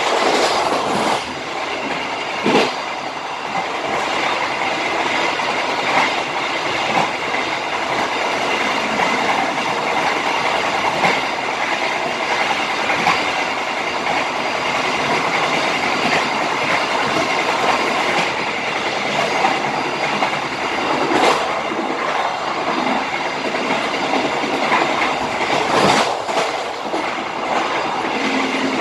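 Train running on the rails at about 88 km/h: a steady wheel-on-rail rumble with a few sharper clacks now and then as the wheels pass over joints and switches.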